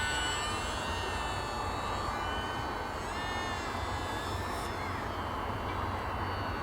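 Electric motor and propeller of an E-flite Delta Ray One RC airplane in flight: a thin, high whine whose pitch drifts, arching up and back down about three seconds in, over a steady low rumble.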